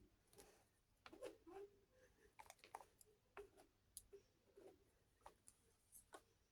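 Faint, scattered clicks and taps of small miniature toy kitchen pieces being handled.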